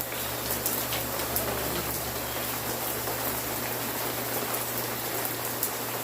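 Steady rain falling, an even hiss with many individual drops ticking and pattering on surfaces.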